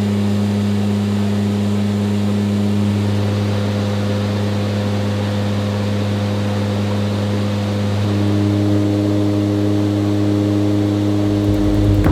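AH-64 Apache helicopter in flight: a steady drone of rotor and turbine engines, made of constant low tones, with a further higher tone joining about eight seconds in.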